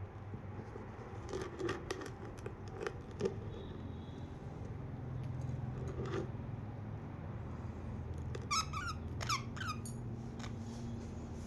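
Pet budgerigars chirping: scattered short chirps and clicks, then a quick run of warbling chirps about eight to ten seconds in, over a steady low hum.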